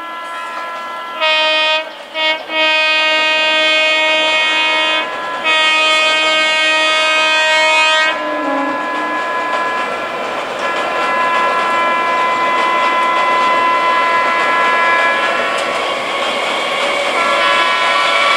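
Electric multiple unit local train's horn sounding long blasts with a few brief breaks, stopping about eight seconds in. After it, the steady noise of the train running past on the rails.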